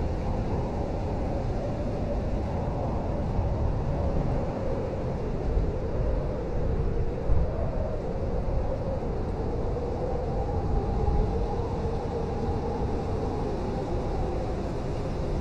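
Blizzard wind howling steadily over a deep rumble, its whistling tones slowly wavering up and down in pitch.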